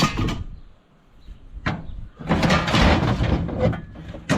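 Heavy metal parts being handled: a sharp clunk, a lighter knock, then about two seconds of scraping as something slides, and another clunk near the end.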